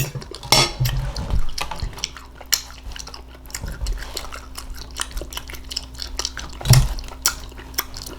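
Close-miked eating of cooked green beans: wet chewing and mouth smacks as many small irregular clicks, louder for a moment about half a second in and again near the end.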